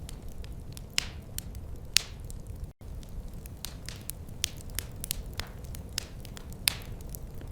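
Wood fire crackling in a fireplace: irregular sharp pops and snaps, a few of them loud, over a steady low rumble. The sound cuts out for a split second a little under three seconds in.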